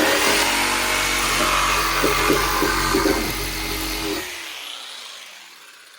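Electric power saw cutting through a wooden board for about four seconds, then released: the motor winds down with a falling pitch and fades.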